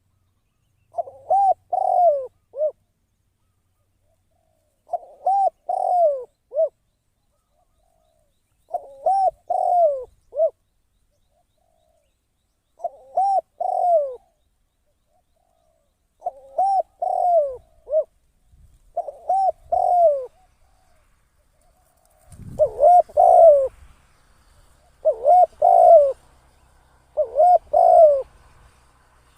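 Spotted dove cooing: a decoy bird repeats its three- to four-note coo phrase nine times, about every four seconds at first and then closer together. A low rumble comes in underneath about two-thirds of the way through.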